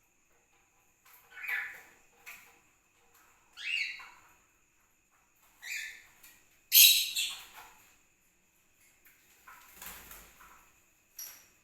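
Pet parrots calling: several short, shrill calls, one rising in pitch about four seconds in and the loudest a little before seven seconds.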